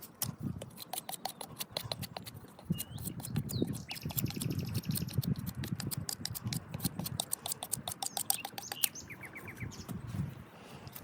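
Wild birds singing and chirping, with a fast trill in the middle and a short run of repeated chirps near the end, over a steady scatter of sharp crackles from a wood fire.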